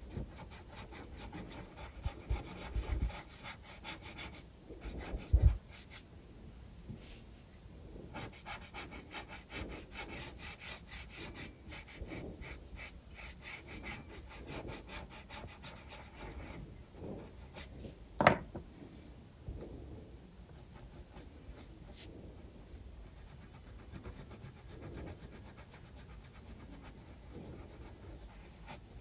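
Graphite pencil scratching across sketchbook paper in quick, repeated shading strokes. There are a few low thumps in the first six seconds and one sharp tap about 18 seconds in.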